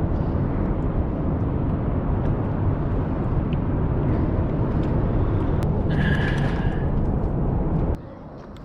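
Wind buffeting the microphone: a loud, low, fluctuating rumble with a brief high tone about six seconds in, cutting off abruptly near the end.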